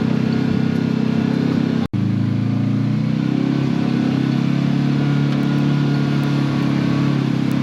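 Side-by-side UTV engine running steadily while driving a trail. The sound drops out for an instant about two seconds in.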